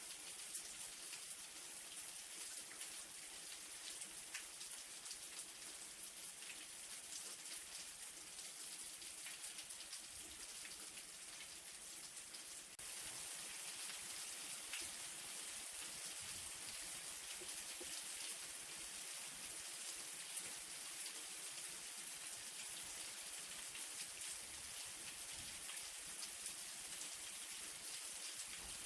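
Light rain falling steadily: an even hiss of drops with many small ticks of single drops. About thirteen seconds in it steps up slightly louder at a sudden join.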